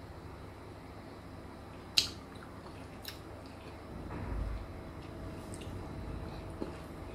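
Close mouth sounds of a person eating a chicken burger: quiet chewing with wet clicks, the sharpest about two seconds in and a softer one a second later. A low rumble follows near the middle.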